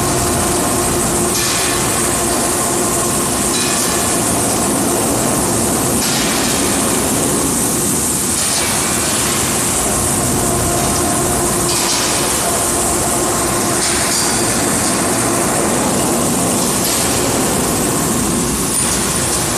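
Rotary drum dryer for sawdust and wood chips running: a steady machine hum with a loud rushing noise, and a high hiss that swells every two to three seconds.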